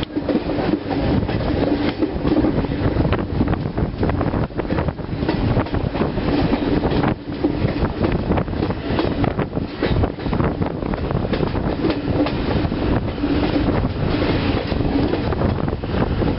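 Passenger express train rolling past on a curve, its wheels clicking over rail joints in a steady stream, with a low tone coming and going. Wind buffets the microphone.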